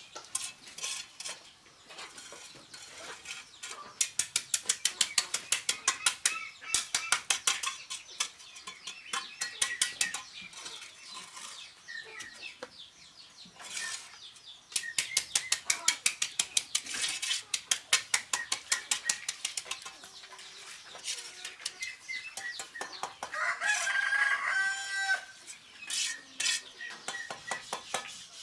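Rapid, even tapping strikes, about five a second, in two long runs, like a hammer working stone. A rooster crows about twenty-four seconds in, with hens clucking around it.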